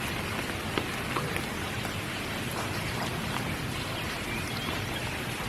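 Steady spring rain: a continuous hiss of falling rain with scattered single drops ticking on nearby surfaces.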